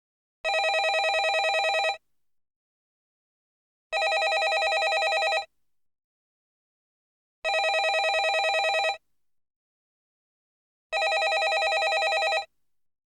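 Landline telephone ringing: four rings of about a second and a half each, every ring a fast trill, repeating about every three and a half seconds with silence between.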